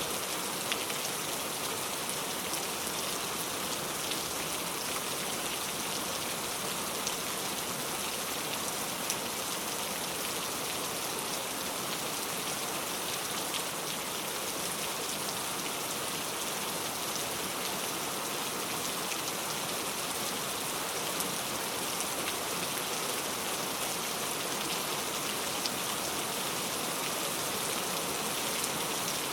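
Heavy rain falling steadily, a dense even hiss with occasional individual drops ticking out of it.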